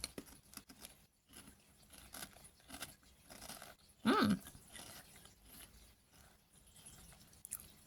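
Close-up chewing of crunchy crab-flavoured chips: small crisp crunches and mouth clicks, with a short pitched vocal sound about four seconds in.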